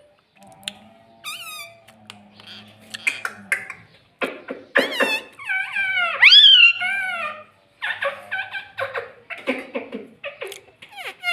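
Pet parrot vocalising in a run of short, high-pitched squawks, chirps and chattering calls, with a loud call about six seconds in that rises and then falls in pitch.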